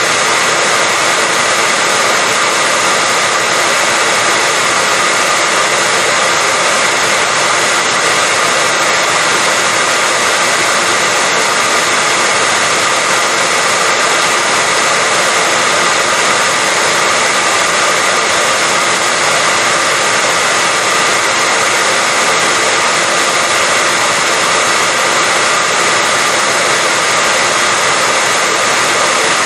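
Hair dryer running continuously at a steady speed: a loud, even blowing hiss with a faint steady whine from its motor.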